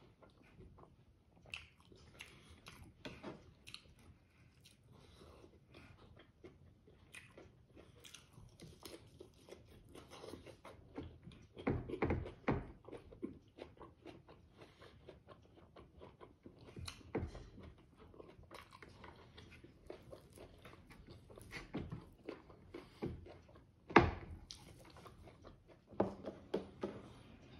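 Close-miked chewing and mouth smacking as boiled smoked pork, innards and rice are eaten, in many short wet clicks. A few louder knocks stand out, the sharpest near the end.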